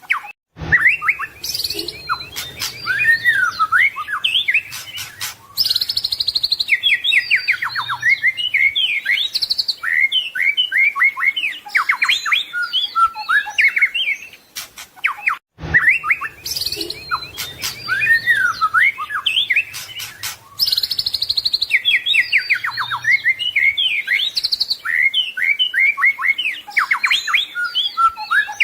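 White-rumped shama (murai batu) singing a rapid, varied song of whistles, slurred glides and trills, packed with mimicked calls. The same stretch of song plays twice, the second time starting about halfway through.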